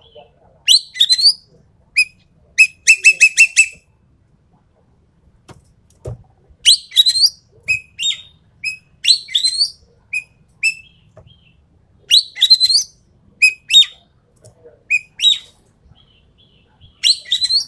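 Ekek keling bird calling in its rapid-fire 'tembakan' song: short sharp rising notes, given singly and in quick runs of several notes, over and over with brief pauses.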